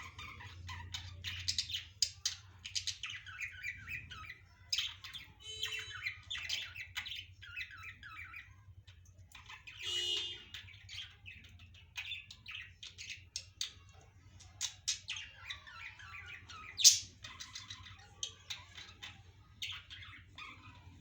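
Budgerigars chattering: a dense, continuous run of short chirps and squawks, with one louder sharp call late on, over a faint steady low hum.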